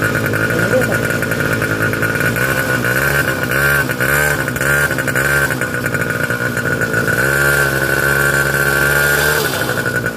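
Engine of a 50 cc pocket-rocket minibike running just after a self-start, revved up and down several times in quick blips, then held at higher revs for about two seconds before dropping back to idle near the end.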